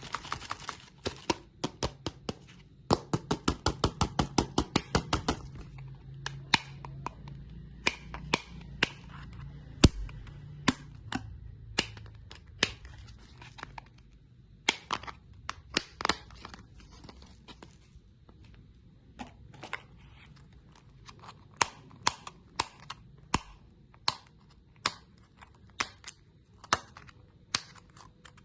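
Crunchy hard candy cracking in sharp, crisp crunches: a fast run of them over the first five seconds or so, then single crunches at irregular spacing.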